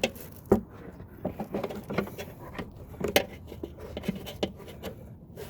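Irregular light clicks, taps and scrapes of hand work on the mower's cable and plastic parts, several small knocks a second at uneven spacing.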